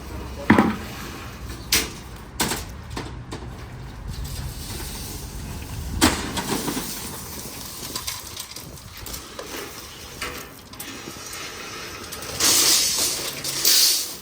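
Several sharp clinks and knocks of hard objects, then a hiss lasting about two seconds near the end.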